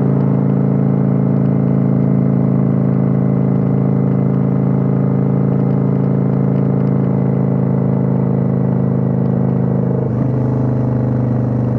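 Kawasaki Vulcan 900's V-twin engine running steadily under way, heard on board the motorcycle, with a brief dip and shift in pitch about ten seconds in.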